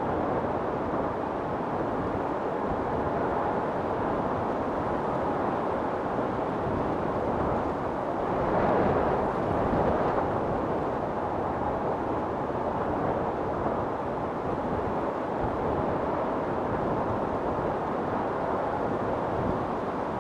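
Storm wind blowing steadily, with a stronger gust swelling and fading near the middle.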